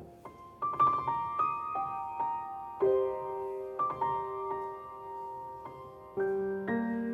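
Piano playing a slow passage of struck notes and chords, each left to ring. After a brief quiet start, higher notes enter; deeper chords are struck about three seconds in and again near the end.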